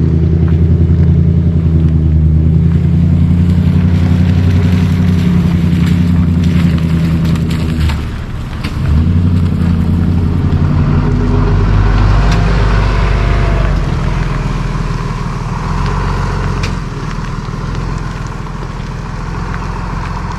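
Large vehicle's engine running close by as it slowly passes, a steady low drone that dips briefly about eight seconds in, then gives way to rising road and tyre hiss as the vehicle moves on.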